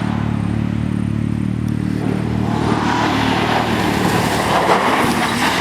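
A motor vehicle engine running steadily, joined about two seconds in by a growing rush of noise.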